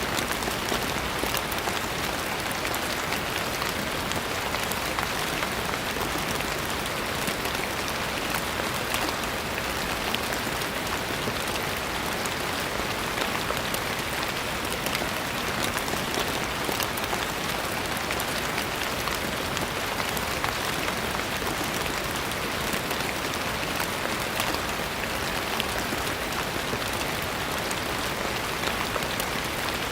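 Steady rain falling on a surface, a continuous even hiss with many small drop ticks and no change in intensity.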